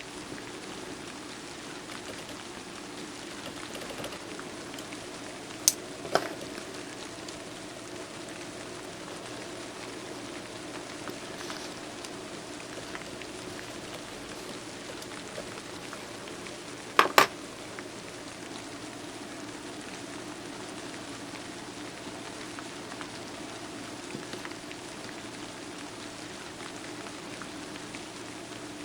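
Steady rain ambience, an even hiss. Two sharp clicks come about six seconds in, and a louder double click a little past halfway.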